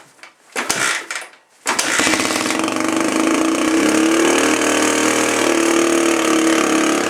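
A 2003 Suzuki DR-Z125's single-cylinder four-stroke engine, cold-started on starting fluid, gives a short sputter and then catches about a second and a half in and keeps running steadily.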